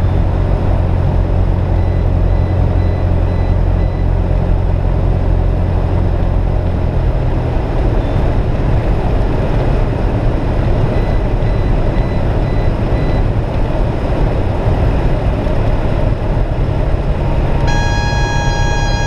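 Cabin noise of a Cessna 172S in flight: the steady drone of its Lycoming IO-360 four-cylinder engine and propeller, the engine note changing about a third of the way in. Near the end a steady reedy tone with several pitches starts and holds.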